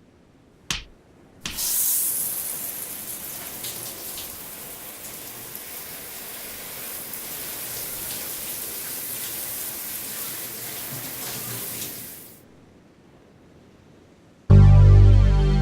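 A steady rush of water starts suddenly about a second and a half in and runs for about ten seconds before fading out. Music comes in loudly near the end.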